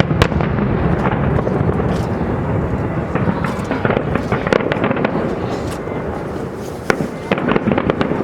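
Aerial fireworks bursting over a low, continuous rumble, with many sharp bangs and crackles. A cluster of sharp reports comes just after the start, and another from about seven seconds in.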